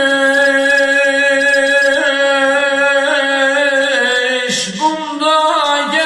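Sung vocal music: a singer holds one long, steady note, breaks off briefly about four and a half seconds in with a breath, then holds another note.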